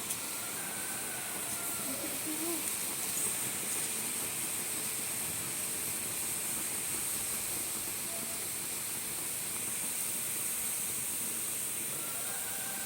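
Steady hissing fizz of aluminium foil reacting with caustic soda (sodium hydroxide) solution, giving off hydrogen gas.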